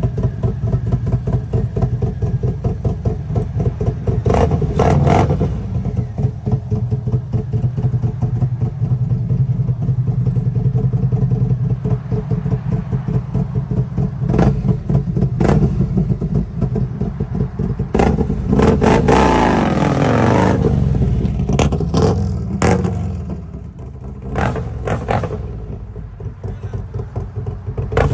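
Harley-Davidson Freewheeler trike's V-twin engine, fitted with performance cams and a Vance & Hines exhaust, running with a choppy pulsing exhaust note. It is revved hard several times, and the pitch falls away after a long rev about two-thirds of the way through.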